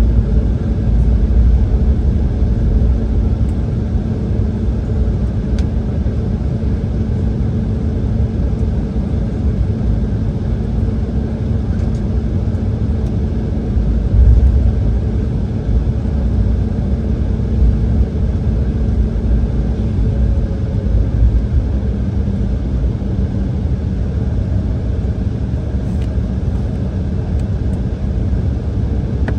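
Steady low rumble of cabin noise inside an Embraer E170 airliner, with its two GE CF34 turbofan engines running and a faint hum that drops slightly in pitch about two-thirds through. A brief louder jolt comes about halfway.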